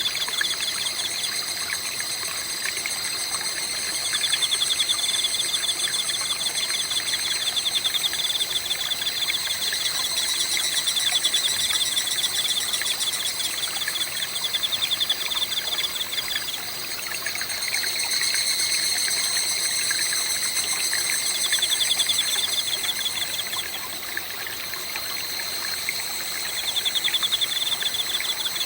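Chorus of autumn insects chirping in fast, high, pulsed trills, several callers overlapping and swelling in and out every few seconds, over the soft trickle of a forest stream.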